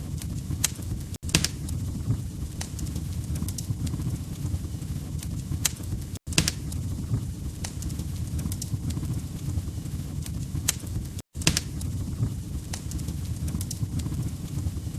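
Log fire crackling in a fireplace: a steady low rumble with sharp pops scattered through it, broken by a brief dropout three times, about every five seconds.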